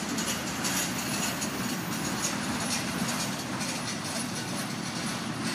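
Double-stack intermodal freight train's well cars rolling past on the rails: a steady rolling noise of wheels and cars with faint irregular clicks.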